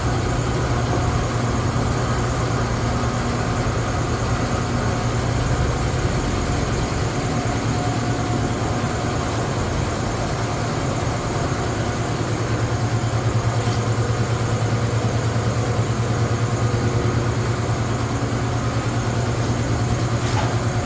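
Vehicle engine idling steadily, a low even hum with a fast regular pulse.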